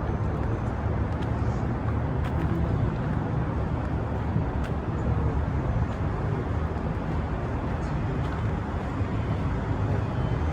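Steady rumble of road traffic on the street.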